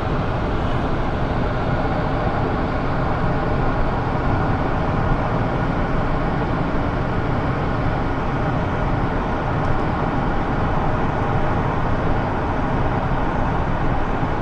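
Steady road and engine noise of a car being driven, with no changes or distinct events.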